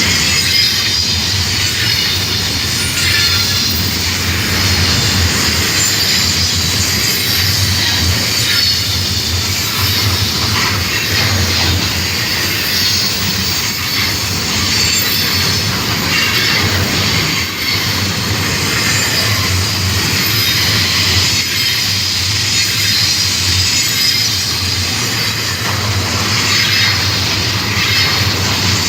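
Union Pacific freight train's cars rolling steadily past, wheels squealing against the rails with a continuous run of clicks and clacks. The rails are making a lot of loud noises.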